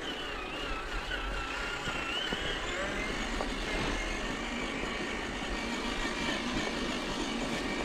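Electric motor and gearing of a radio-controlled crawler truck whining as it is driven. The whine wavers in pitch with the throttle and is strongest in the first few seconds, then fainter.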